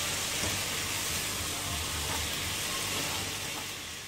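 Chopped spinach and garlic frying in hot oil in a wok, a steady sizzle as it is stirred on its way to crisp. The sizzle fades near the end.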